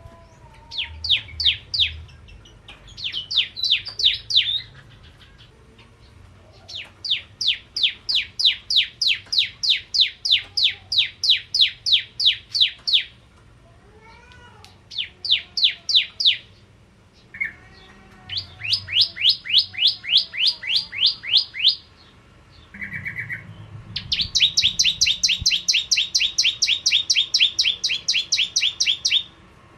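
Bar-winged prinia calling in repeated bouts of rapid, sharp chirps, about four notes a second. Each run lasts from under a second to about six seconds, with short pauses between.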